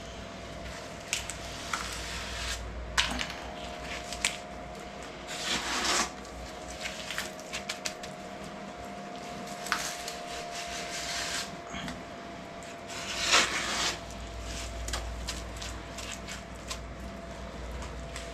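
Hand tool scraping and pressing wet lime render into a crumbly wall: irregular scrapes, squishes and light taps, the longest scrapes about five and thirteen seconds in, over a faint steady tone.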